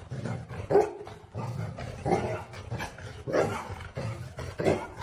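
A dog barking, a series of short barks spaced about a second apart.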